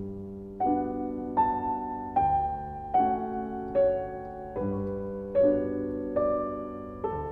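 Slow, gentle solo piano music, a note or chord struck about every 0.8 seconds and left to ring and fade.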